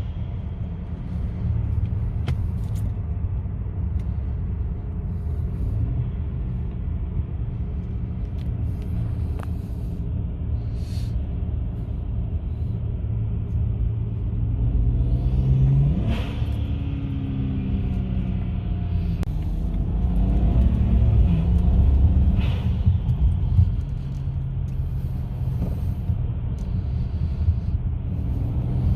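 BMW 335xi twin-turbo inline-six with open intake filters and capped diverter valves, driven in the regular transmission mode and heard from the car. It runs steadily, its revs climb about halfway through and drop with a gear change, then the pitch rises and falls again for several seconds.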